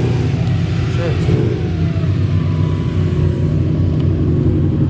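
Car engine running steadily at idle, with people talking in the background.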